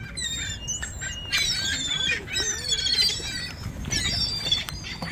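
A flock of gulls calling: many short, high, overlapping squawks and squeals, thickest from about a second in.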